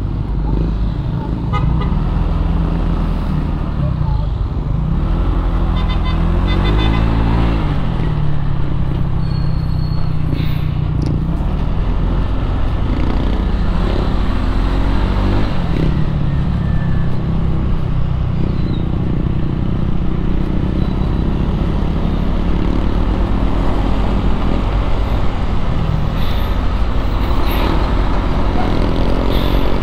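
Motorcycle engine running through traffic, its pitch rising and falling several times as it revs and shifts, over steady road and wind noise and the sound of surrounding traffic.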